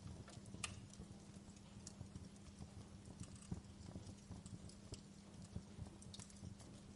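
Campfire burning: wood crackling with sharp pops at irregular intervals over a low rumble and a faint steady hum.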